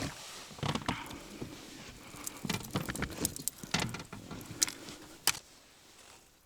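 Handling of fishing tackle and a just-caught small fish: a scattered run of light clicks, taps and rattles that dies away near the end.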